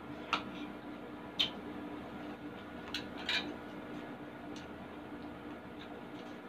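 Close-miked eating sounds: a person chewing a mouthful of food with a few short, sharp mouth clicks and smacks, four in all, mostly in the first half. A steady low hum sits underneath.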